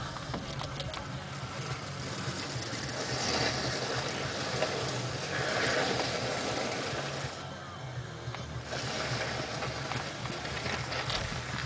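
Vehicle engine running slowly, heard inside the cab as a steady low hum with a few small clicks and rattles.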